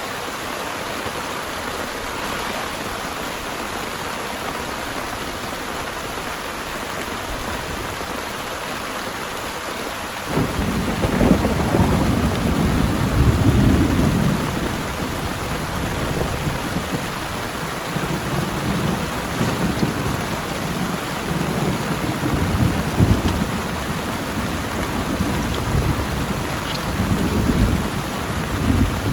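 Heavy rain falling steadily; about ten seconds in, thunder breaks in suddenly and rumbles on in rolling waves under the rain for the rest of the time.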